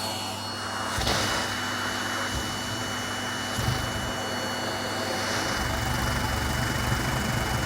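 Vacuum cleaner running steadily: a rushing airflow with a constant high whine over it. The low rumble grows heavier about six seconds in.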